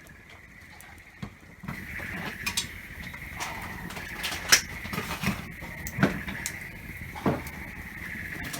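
Wood campfire crackling, with several sharp pops, over a steady high-pitched hiss. The crackle grows louder a little under two seconds in.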